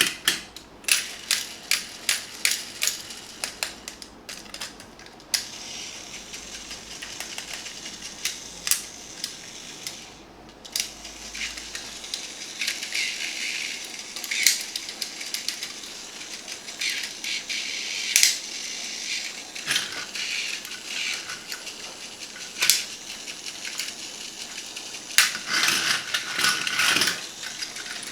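Small plastic and die-cast toys being handled: a run of sharp clicks about two a second at first, then scattered clicks and rattles, with a denser clatter near the end.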